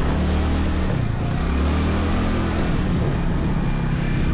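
Scooter engine running while riding on the road, with road and wind noise; the engine note dips about a second in and picks up again around three seconds in.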